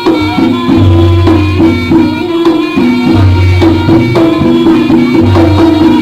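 Live jaranan music: a gamelan-style ensemble of struck, tuned metal instruments ringing steady notes over hand drums, with a deep low note sounding in stretches of about a second.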